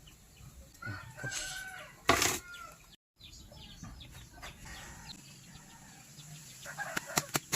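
A bird calling a few times, with a short loud rustling burst about two seconds in and a few sharp clicks near the end.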